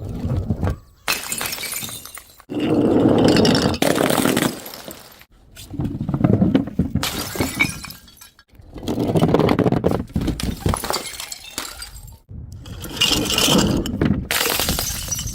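Glass bottles smashing, one after another, each a loud crash of breaking glass with shards clinking, cut off abruptly before the next.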